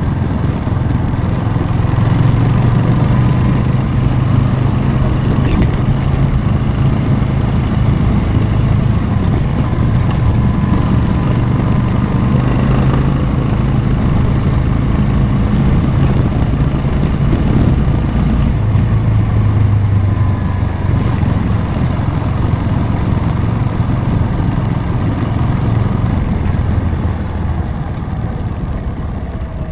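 Motorcycle engine running steadily at low revs while riding, its pitch rising and falling a little. Briefly quieter near the end.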